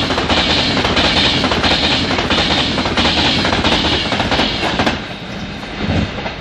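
Class 390 Pendolino electric train running through the station on the fast line, wheels clacking over the rail joints about one and a half times a second. The noise falls away about five seconds in as the train clears, leaving a lower hum.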